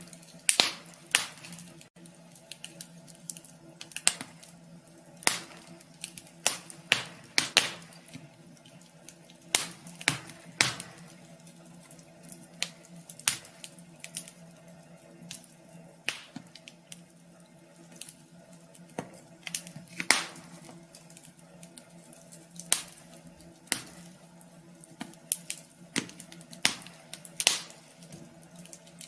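Wood fire crackling in a wood stove: irregular sharp pops and snaps, several in quick succession at times, over a faint steady hum.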